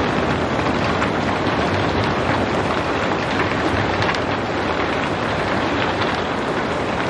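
Steady rain falling, a dense even hiss sprinkled with fine drop patter, without thunder.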